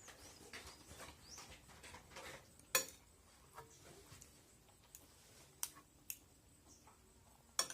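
Cutlery clicking against a plate while eating: a few sharp, separate clicks, the loudest a little under three seconds in, with faint short high chirps early on.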